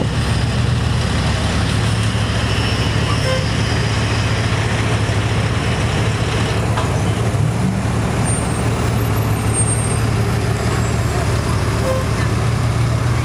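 Bugatti Veyron Grand Sport Vitesse's quad-turbocharged W16 engine idling with a steady low hum.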